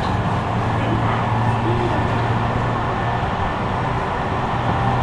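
Running sound inside a Tobu commuter train car on the move: a steady rumble of wheels on the rails with a low, steady hum under it.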